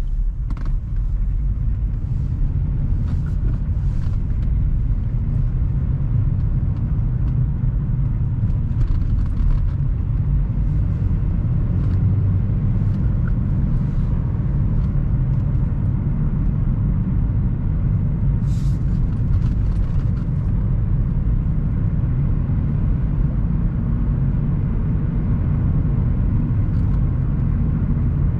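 Car on the move: a steady low rumble of engine and road noise, with a few faint clicks along the way.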